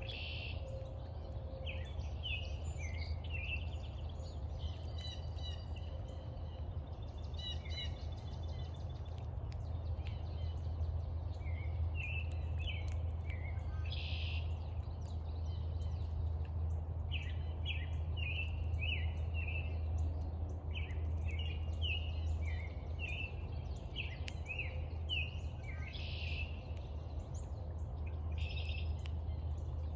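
Birds chirping and calling in many short, quick notes throughout, over a steady low rumble of background noise.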